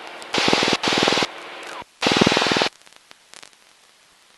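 Aircraft engine and propeller drone heard through the cockpit intercom, cutting in and out abruptly in short bursts as the voice-activated microphone gate opens and shuts, then dropping to dead silence after about two and a half seconds.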